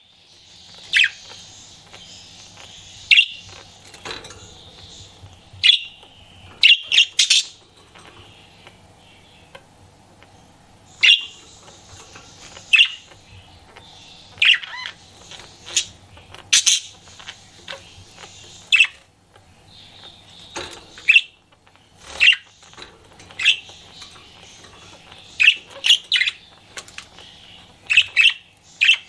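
Pet budgerigar chattering: a soft, continuous high warble broken by sharp, loud chirps every second or two.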